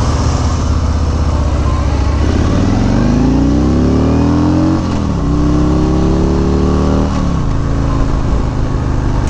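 Harley-Davidson Street Glide's V-twin engine accelerating: its pitch climbs for a couple of seconds, drops at a gear change a little before halfway, climbs again, then falls back as the throttle eases about two-thirds of the way through.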